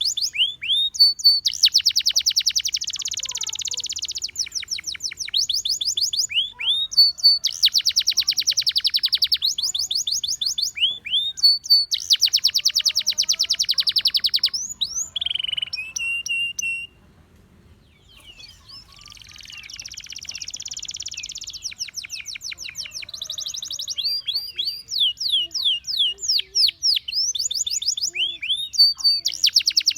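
Gloster canary singing: phrases of quick falling whistled notes alternating with very fast rolling trills, with a short pause a little over halfway through before the song resumes.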